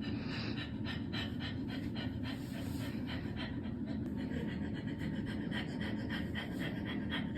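Rapid, rhythmic panting, about three to four breaths a second, over a steady low hum.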